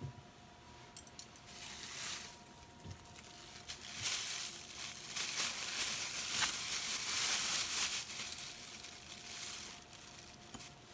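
Rustling and crinkling handling noise with a few light clicks, swelling about four seconds in and fading near the end, over a faint steady hum.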